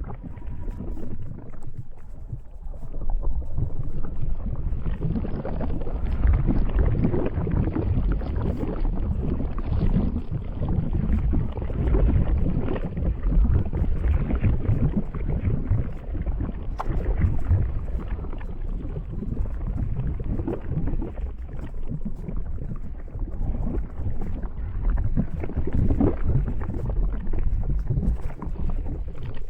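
Lava flowing: a continuous low rumble dotted with irregular crackles, swelling a few seconds in.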